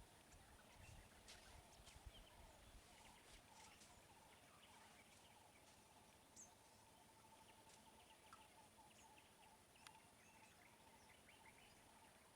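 Near silence: faint outdoor background with scattered faint clicks, and from about four seconds in a faint, fast-pulsing high trill.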